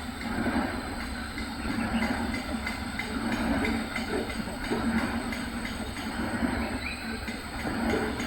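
A steady mechanical rumble with rattling and clicking, like a running machine or vehicle.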